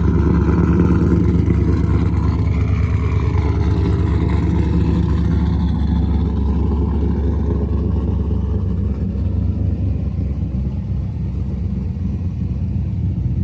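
Cammed 2002 Chevrolet Camaro SS's LS1 V8 running steadily at idle, heard from the front of the car, where it is fairly quiet.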